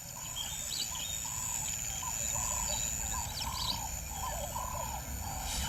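Birds calling outdoors: a steady run of short, arched mid-pitched notes, about two a second, with a few higher chirps mixed in over a low background rumble.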